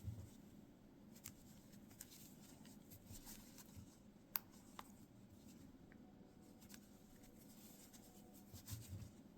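Near silence with faint, scattered clicks and soft rustling of a crochet hook working yarn as single crochet stitches are made.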